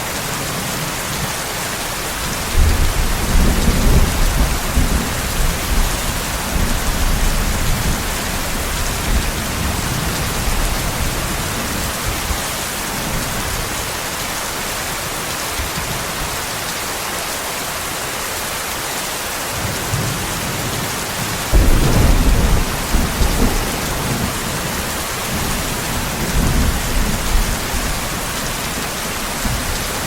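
Steady heavy rain hissing, with rolls of thunder rumbling low beneath it: one starting a couple of seconds in and dying away over several seconds, a second, sharper one about two-thirds of the way through, and a weaker rumble near the end.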